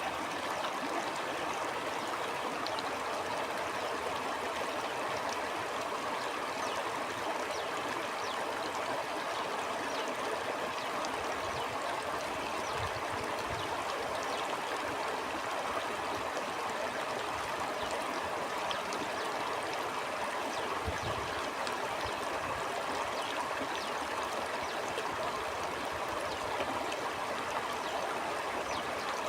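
Stream water flowing steadily, a continuous rush with small splashes and gurgles. Two short low rumbles come in, one near the middle and one about two-thirds through.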